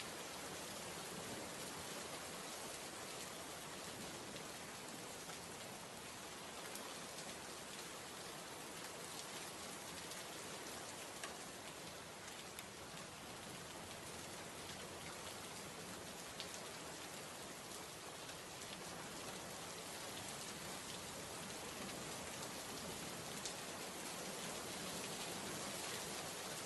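Heavy rain falling steadily, a dense even hiss with the odd louder drop ticking out of it.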